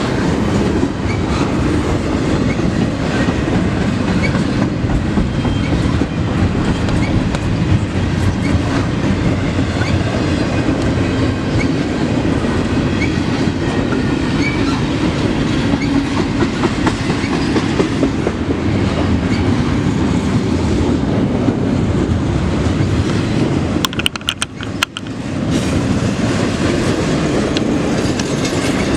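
Intermodal freight train cars rolling past at close range: a steady rumble of wheels on rail with clickety-clack over the joints. It goes briefly quieter about 24 seconds in.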